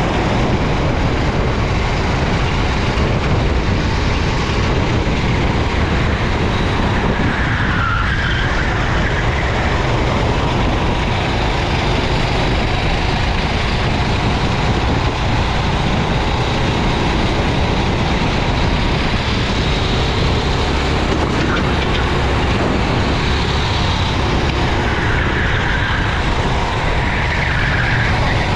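Racing kart running at speed on a wet track: its engine under load, mixed into a heavy, steady rush of wind and spray noise on the onboard microphone, with brief louder swells about a third of the way in and near the end.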